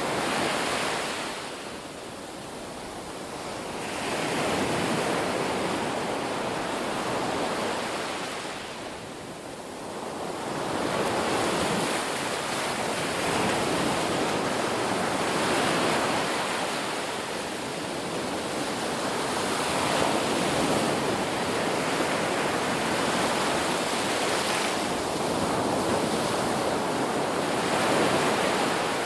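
Ocean waves breaking on the shore, a steady wash of surf that swells and falls back every few seconds.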